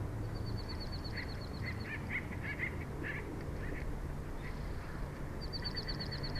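Birds calling: a fast, high-pitched trill of evenly spaced notes near the start and again near the end, with scattered lower chirps in between, over a steady low outdoor rumble.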